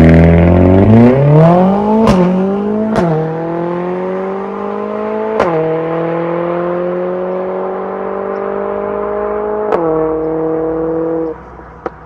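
Mercedes-AMG CLA45 S's turbocharged 2.0-litre four-cylinder (M139), breathing through an aftermarket mid pipe and the stock muffler, accelerating hard through the gears. Its note rises and is cut four times by quick upshifts, each with a sharp crack from the exhaust, and each gear pulls more slowly. The throttle is lifted and the note drops away near the end.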